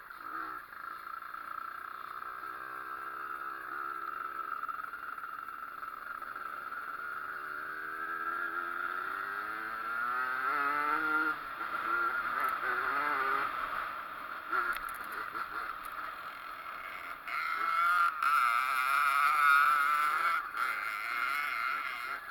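Pit bike with a Zündapp engine running and being revved, its pitch rising and falling several times, louder near the end.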